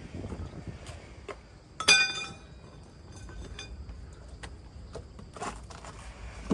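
A hard metal clank about two seconds in that rings briefly at several pitches, among lighter clinks and knocks of metal tools or parts being handled.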